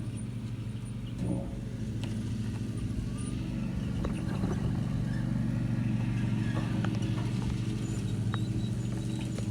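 A small engine running steadily at a constant speed, getting a little louder about four seconds in.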